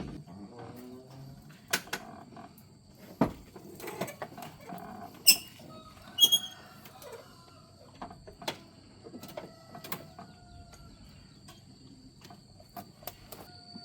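Scattered clicks, knocks and two ringing metallic clinks of tools and parts being handled during car repair work, over a faint steady high-pitched tone.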